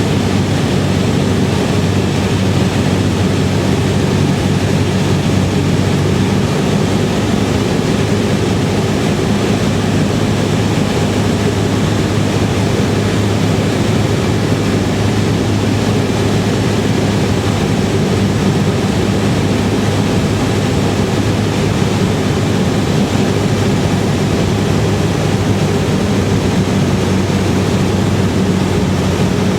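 Cessna 172R's four-cylinder Lycoming engine and propeller running steadily, an even drone with a constant low hum and a broad rush of air noise.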